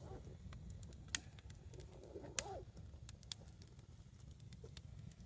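Wood campfire crackling: scattered sharp pops and snaps, a few seconds apart, over a faint low background rumble, with a brief faint whimper-like sound about two and a half seconds in.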